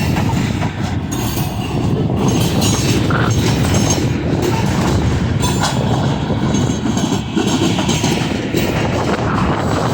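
Train cars rolling past: a steady loud rumble of wheels on the rails, with clicks over rail joints.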